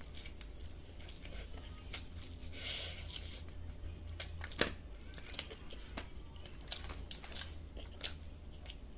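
Close-up eating sounds: teeth tearing cooked meat off a bone and chewing, with irregular sharp wet clicks and smacks, the loudest about halfway through. A low steady hum runs underneath.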